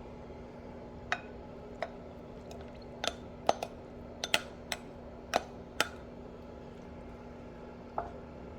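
Kitchenware clinking: a run of sharp clinks and taps, most of them between three and six seconds in, with a last one near the end, over a steady low hum.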